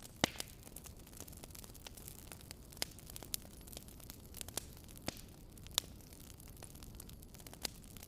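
Fire crackling in a fireplace: irregular sharp pops and snaps over a low steady rush, the loudest pop coming right at the start.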